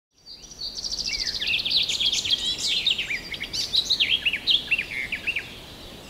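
Songbird song: a quick trill of high repeated notes, then a run of varied chirps and arched whistled slurs, stopping about half a second before the end.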